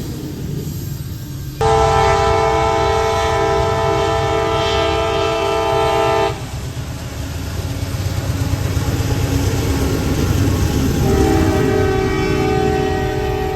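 Diesel freight locomotive's multi-chime air horn, on a CSX GE AC4400CW (CW44AH), sounding one long blast of about five seconds that cuts off sharply, then sounding again near the end. A steady low rumble runs underneath.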